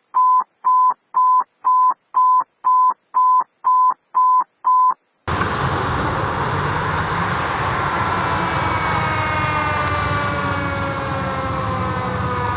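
About eleven short, identical high beeps at one steady pitch, roughly two a second, then a sudden cut to a fire engine's siren sounding a long tone that falls slowly in pitch over steady engine and road noise.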